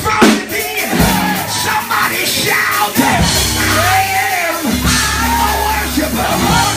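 Church praise music from a live band, with held low bass notes, and voices singing and shouting over it.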